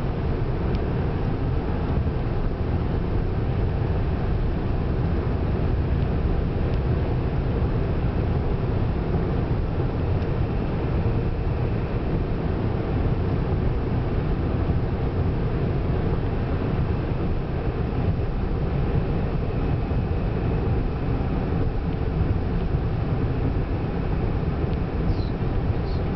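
A car driving at highway speed, heard as a steady deep rumble of tyre and wind noise in a strong wind.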